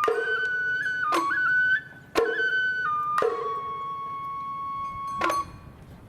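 Japanese festival hayashi: a shinobue bamboo flute plays a held melody that steps between a few high notes, punctuated by sharp percussion strikes about once a second. The playing stops about five seconds in.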